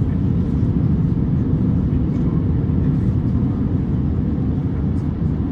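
Steady low rumble heard inside the cabin of an Airbus A350-900 taxiing, its two Rolls-Royce Trent XWB engines at idle.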